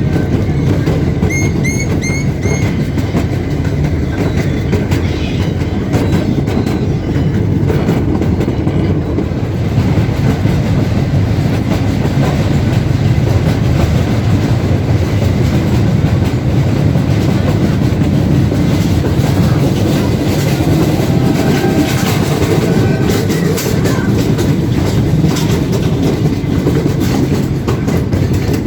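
Narrow-gauge park train running along its track: a steady low rumble of wheels on the rails, with scattered faint clicks.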